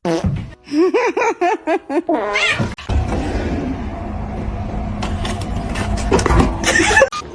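A cat making a quick run of about seven short chirping meows, then one longer call rising in pitch. A steady low rumble and a few clicks follow.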